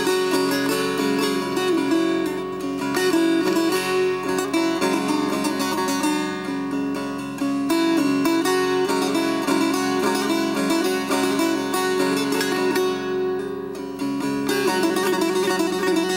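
Instrumental passage of Persian classical music played on plucked string instruments: quick, dense notes over a steady low drone, with no singing.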